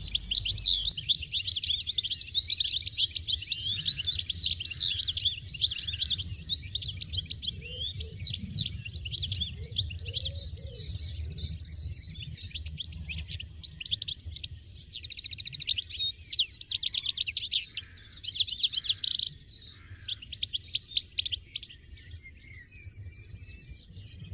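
European goldfinches chirping: a dense, rapid twittering of high notes that thins out and fades over the last few seconds.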